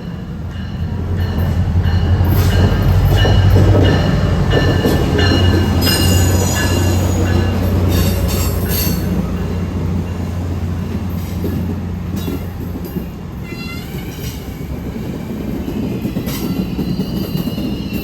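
Train passing: a low diesel locomotive drone that swells in the first seconds and fades after about thirteen seconds, with high-pitched wheel squeal on the rails and clicks over the track.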